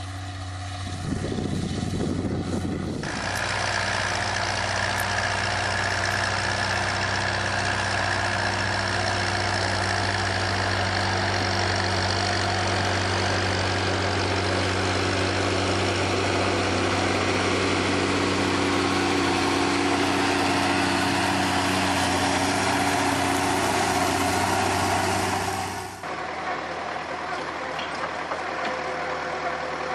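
A machine's engine running steadily with a low, even hum, growing louder and noisier about three seconds in, then cut off abruptly near the end, where a quieter engine sound takes over.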